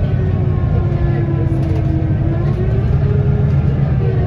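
Scania L94UB bus's diesel engine and ZF automatic driveline running under way, a steady low rumble with a thin whine that slides slowly down and changes pitch about two seconds in and again near the end.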